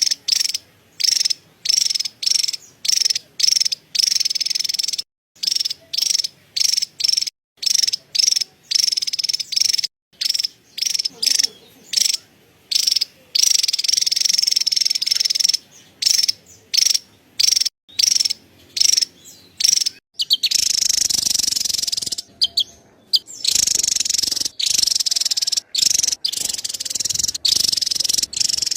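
Javan tesia chattering: high, buzzy, rapid call notes in short bursts about one or two a second, running into longer unbroken stretches of chatter in the last third.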